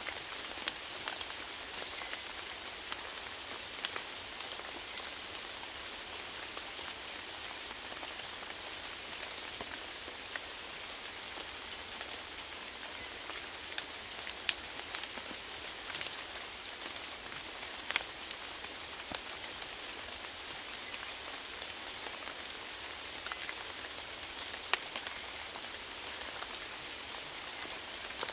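Steady rain falling, an even hiss with scattered sharper ticks of single drops hitting a surface.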